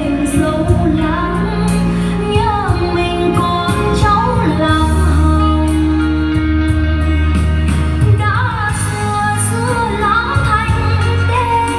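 Vietnamese song with a female voice singing an ornamented, sliding melody over band accompaniment with a steady bass and a beat.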